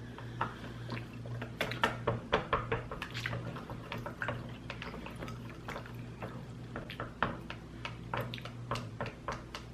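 A mouthful of sushi being chewed close to the microphone: wet, irregular smacking and clicking mouth sounds, over a steady low hum.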